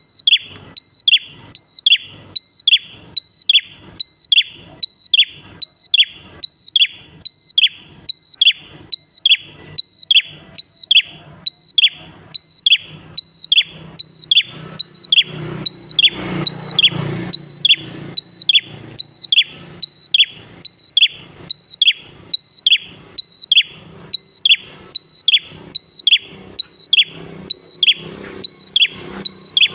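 A prenjak klawu songbird calling in full song. It repeats one short call a little more than once a second, each a brief high note that drops quickly into a falling whistle.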